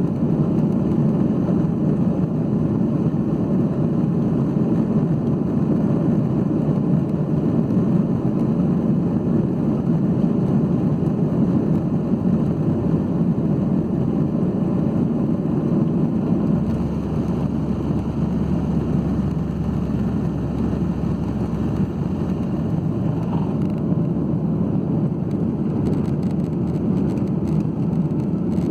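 Steady jet engine and airflow noise inside the cabin of a Boeing 737-8 during takeoff, a low even rumble from its CFM LEAP-1B turbofans. About 17 seconds in it eases slightly and a deeper low hum comes up.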